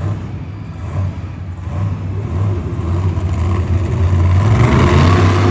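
Monster truck engine running and revving, getting louder toward the end.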